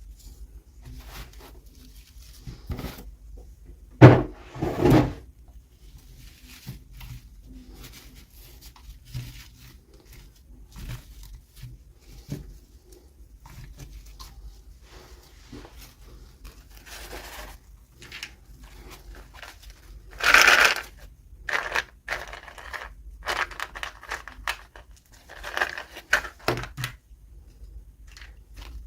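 Toy packaging being handled and opened by hand: rustling and crinkling of plastic and paper with scattered small clicks and knocks. Two louder bursts come about four seconds in and another about twenty seconds in.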